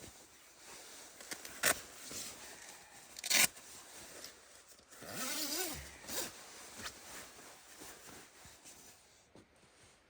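Short scraping strokes: two sharp ones in the first few seconds, then a longer one around the middle whose pitch rises and falls, followed by a few fainter ones.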